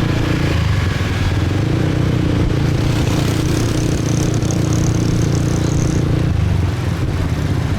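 Small motorbike engine running under way in city traffic, a steady drone whose pitch shifts about half a second in and again near the end as the speed changes.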